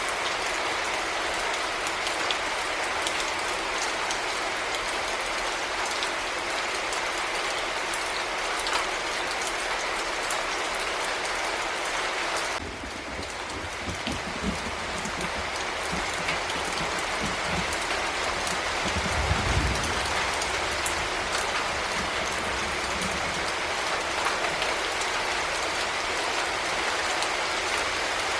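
Heavy rain falling in a steady, dense hiss. About thirteen seconds in the sound changes abruptly, getting duller, and a low rumble comes in, loudest about twenty seconds in.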